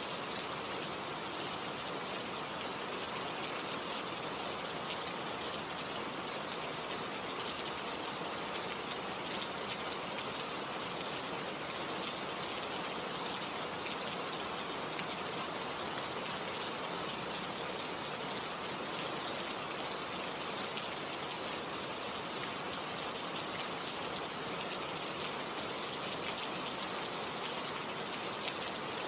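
Steady rainfall: an even hiss of rain with the fine patter of drops, unchanging throughout.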